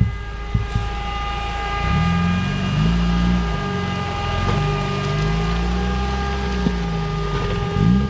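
UAZ off-road vehicle engine working under load, its revs rising and falling, with a steady high whine alongside. A few sharp knocks in the first second.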